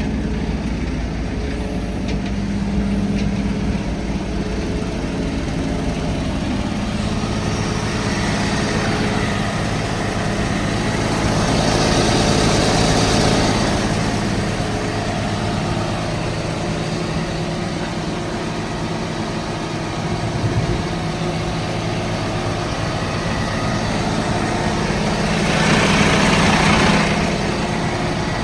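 Diesel truck engine idling steadily, with two louder swells, the first about halfway through and the second near the end.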